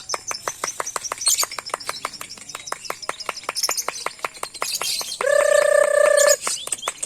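Lovebirds singing in a long, rapid chattering trill of chips, about eight to the second, with higher chirps over it. About five seconds in, a steady horn-like tone sounds for about a second.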